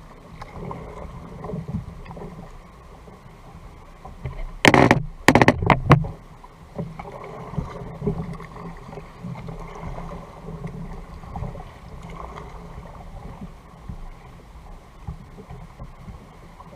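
Ambient sound on a sea kayak: a steady low rumble of water and wind against the boat, broken about five seconds in by a short burst of loud knocks.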